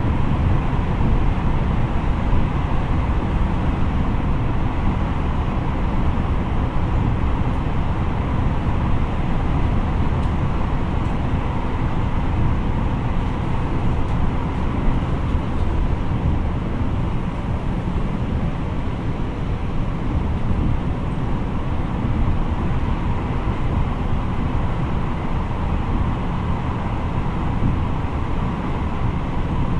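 Tokyo Metro 03 series electric train running at a steady speed, heard from inside the car: continuous wheel-and-rail running noise with a faint steady tone.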